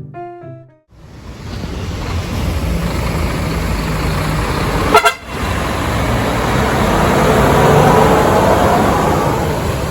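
Heavy truck traffic on a road: a big diesel truck's engine and tyre noise swells as it approaches and passes, loudest near the end. A single short horn toot sounds about five seconds in.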